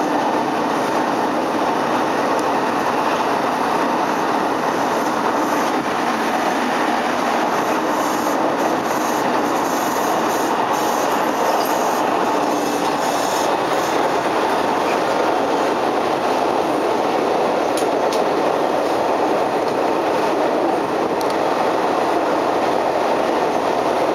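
Hanshin 5700 series electric commuter train running, heard from inside the car as it crosses a steel truss bridge: a steady, even rumble of wheels on rail. The permanent-magnet synchronous traction motors are very quiet.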